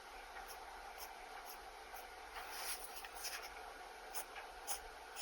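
Pen nib scratching across sketchbook paper in short drawing strokes, roughly two a second at first, then a quicker, louder run of strokes a little after halfway.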